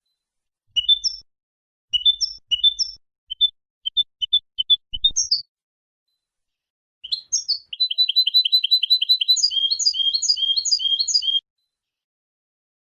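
European goldfinch singing: a few short twittering phrases, then after a pause of about a second and a half a fast run of repeated notes lasting about four seconds.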